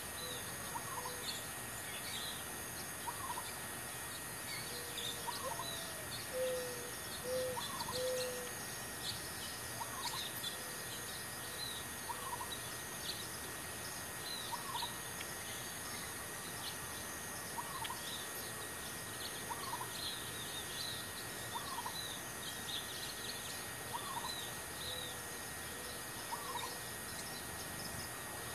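Birds calling: a short call repeats about every second and a half, with scattered higher chirps and a few lower notes, over a steady hiss.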